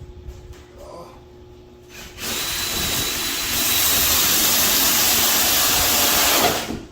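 Power drill running, cutting into a wooden door to mortise a hinge recess with a hinge jig. It starts about two seconds in, gets louder about a second and a half later, and cuts off near the end.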